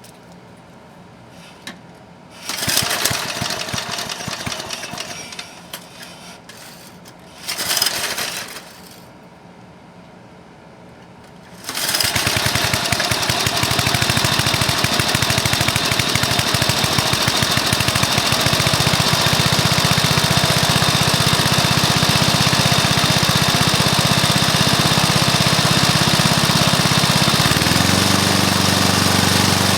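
Rebuilt early-1980s Briggs & Stratton lawn mower engine, with new piston, rings and valves, on its first start: two short bursts that die away, then about 12 seconds in it catches and runs steadily. Near the end its speed steps up.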